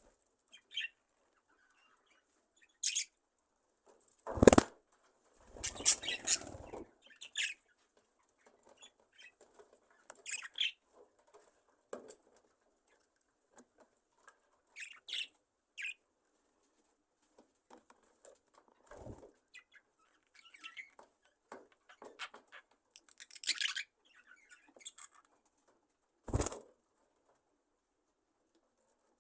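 A colony of budgerigars (budgies) at rest: scattered short chirps and occasional bursts of wing flapping, with quiet gaps between. The loudest flutters come a few seconds in and again about two thirds of the way through and near the end.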